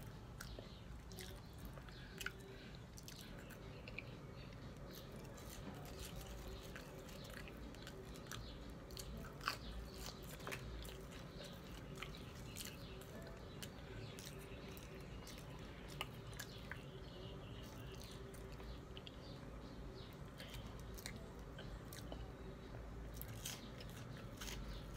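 Faint chewing and mouth clicks of a person eating french fries, with scattered small crunchy clicks and one sharper click about nine seconds in.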